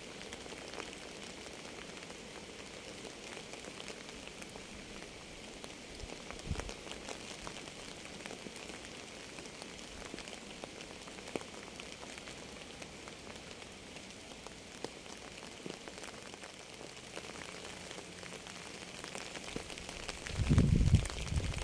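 Steady rain falling on a surface, a continuous hiss with scattered individual drop taps. Near the end a brief, loud, low rumble.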